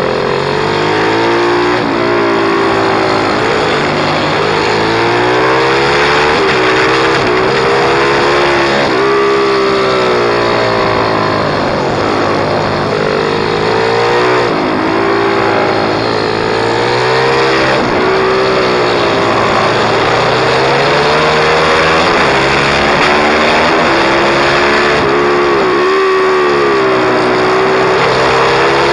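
Pit bike's small single-cylinder engine at riding speed, its pitch climbing and dropping again and again every few seconds as it accelerates through the gears and backs off.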